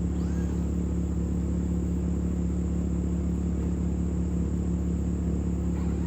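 A steady, unchanging low engine-like rumble with a constant hum.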